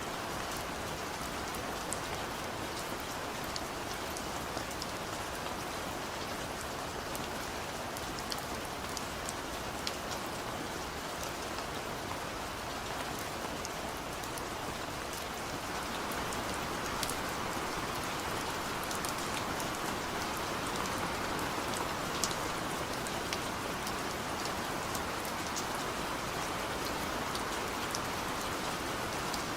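Steady rain falling, with many individual drops ticking sharply on a surface over an even hiss; the rain gets a little heavier about halfway through.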